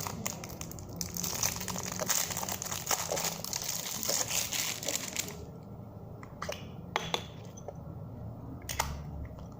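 Surprise-egg packaging crinkling and rustling as it is handled, dense for about five seconds, then a few separate clicks.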